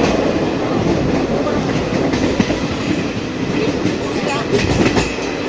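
Passenger train heard from an open carriage doorway while running: a steady rush of wheel and wind noise with wheels clicking over the rails, and a quick run of sharper clacks near the end.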